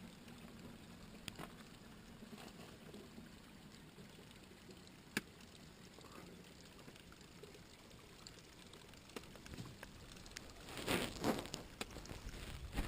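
Spring water pouring faintly in a steady trickle, with a few light clicks. Near the end, several louder bursts of rough noise stand out.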